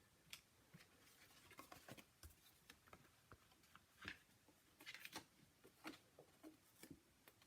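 Faint, scattered taps and light rustles of paper-crafting materials being handled, as a rubber stamp is set stamp side down and pressed onto the card; a few slightly louder taps come about four to six seconds in.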